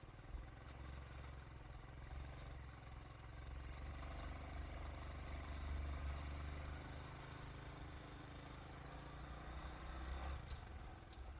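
Motor vehicle engine running with a low rumble, growing louder toward the middle and dropping away about ten seconds in.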